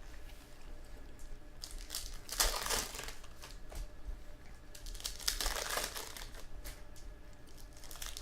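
Foil trading-card pack wrappers crinkling as they are torn open and handled, in two main bouts of rustling, about two seconds in and again about five seconds in.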